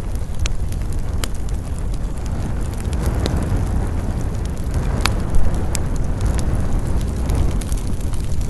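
Wood fire burning in a fireplace, crackling with scattered sharp pops over a steady low rumble; one louder pop about five seconds in.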